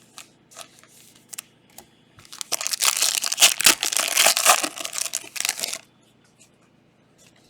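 Plastic trading card pack wrapper being torn open and crumpled, a loud crinkling that lasts about three and a half seconds in the middle, after a few light clicks of cards being handled.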